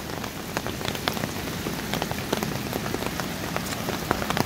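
Heavy rain falling steadily, with many separate drops ticking sharply and irregularly close by.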